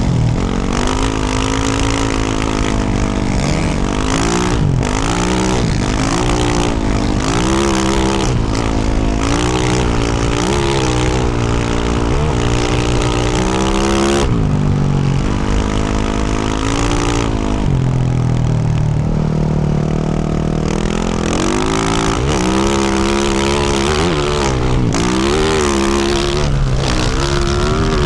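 2024 Yamaha YZ450F's single-cylinder four-stroke engine through a Yoshimura RS-12 exhaust, ridden under load: the pitch rises and falls over and over as the throttle is worked through the gears. A steadier, lower-pitched stretch comes about two-thirds through before the revving resumes.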